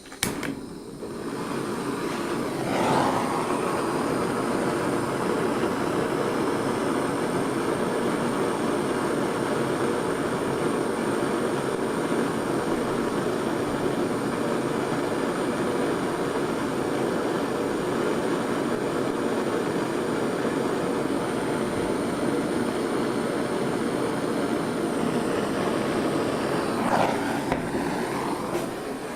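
A gas torch flame burning with a steady roaring hiss, heating a calcium silicate board in a heat-conduction test. A click marks its start, and the tone shifts briefly about three seconds in and again near the end.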